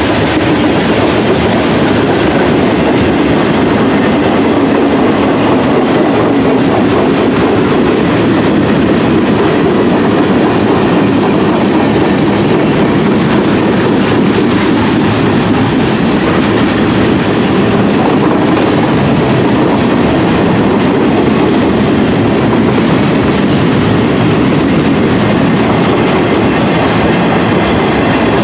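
CSX freight train's cars rolling past at close range: steel wheels running on the rails in a loud, steady, unbroken noise.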